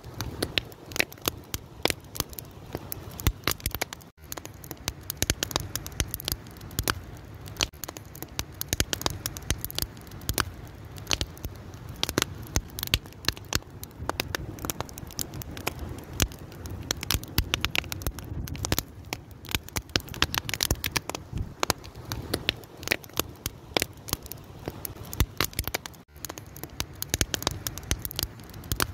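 Wood fire crackling steadily, with many sharp pops and snaps over a low, even rumble of burning.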